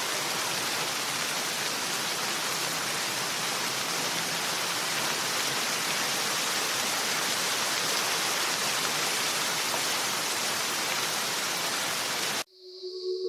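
Steady rain, an even dense hiss, that cuts off abruptly about twelve seconds in. Steady sustained tones of ambient music then swell in at the very end.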